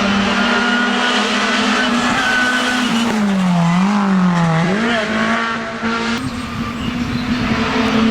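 Racing car engine running hard at high, steady revs. About three seconds in its pitch drops and wavers as the driver lifts off, then it climbs back and holds steady again.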